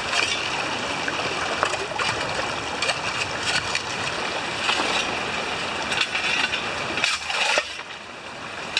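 River water rushing and splashing steadily, with many small splashes over the flow, dropping somewhat in the low end about seven seconds in.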